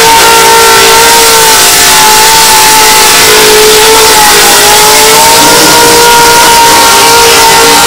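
Supercharged Ford Cleveland V8 in a Ford XD Falcon ute held at full revs during a burnout, very loud, with the hiss of spinning tyres underneath. The engine note holds steady, dipping briefly about four seconds in before climbing back.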